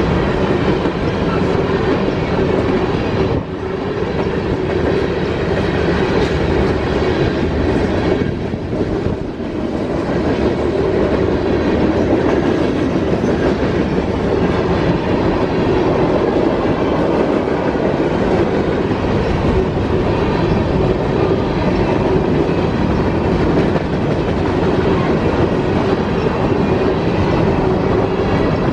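CSX freight train of covered hopper cars rolling steadily past, the noise of its wheels on the rails continuous, with two brief small dips, a few seconds in and again around nine seconds.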